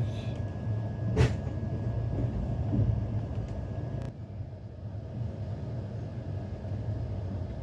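Passenger train running along the track, a steady low rumble heard from inside the coach, with one sharp click about a second in.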